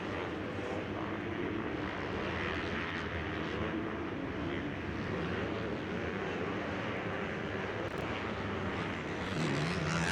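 Motocross bikes' engines running on the track, a steady drone of engine note, growing a little louder near the end.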